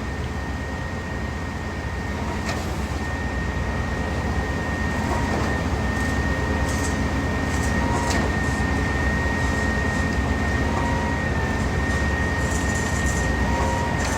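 Concrete pump truck running steadily, a constant heavy diesel-machinery drone with a thin high whine held on top of it.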